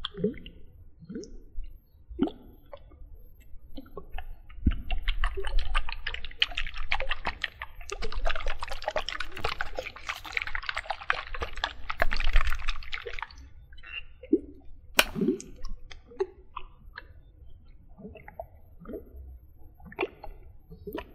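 Close-miked water sounds: scattered single drips and plops, with a long stretch of rapid, dense splashing or bubbling in the middle.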